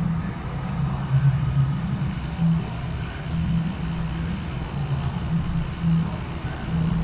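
Tattoo machine running with a steady low buzz that wavers slightly in pitch.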